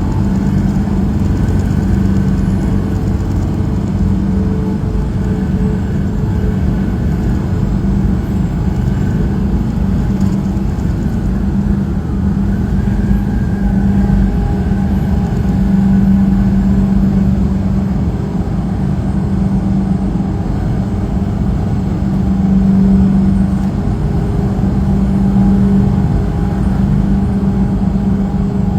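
Semi-truck driving along: a steady engine drone with a held low hum over road rumble.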